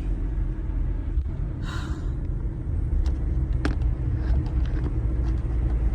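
Steady low rumble inside a moving car's cabin, engine and tyres running on a snow-covered road, with a short hiss about two seconds in and a single click later.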